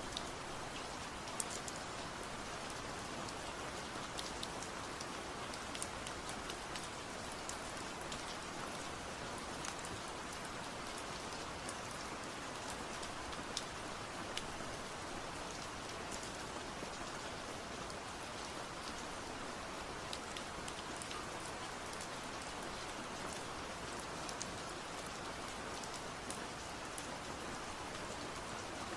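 Steady rain falling, a continuous even hiss with scattered sharp drops ticking on a surface.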